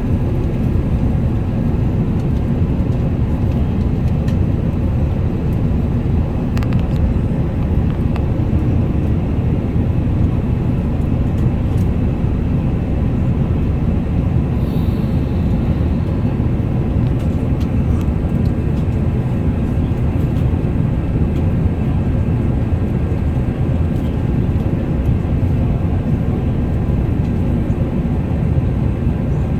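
Steady low rumble of an Airbus A380's engines and rushing air, heard inside the passenger cabin, with a few faint clicks over it.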